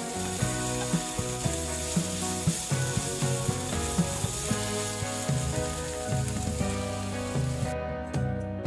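Chicken and vegetable samosa filling sizzling in a nonstick frying pan while a wooden spatula stirs and knocks against the pan, over background music. The sizzling cuts off near the end, leaving the music.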